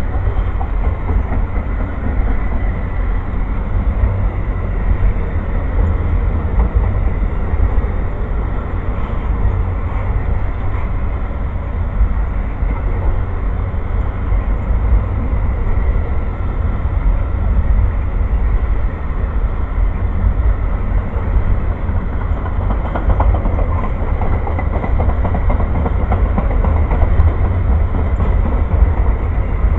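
A passing train's cars rolling by at close range: a steady, loud rumble and rush of wheels on rail, with a faint steady high whine above it.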